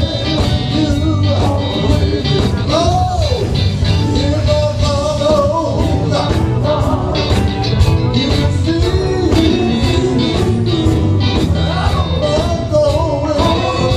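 Live gospel band music: a steady beat of drums and bass under a bending melodic lead line.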